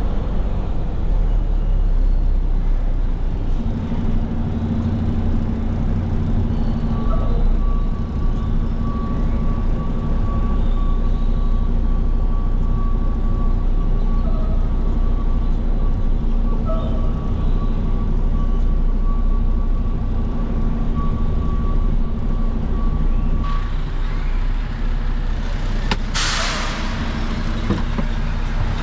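Roll-off dumpster truck's diesel engine running steadily, with a thin steady whine through the middle. A short, sharp air-brake hiss comes near the end.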